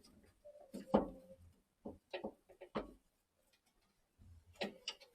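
Scattered sharp clicks and knocks of boiler pump and pipe parts being handled and fitted, the loudest about a second in with a brief ring.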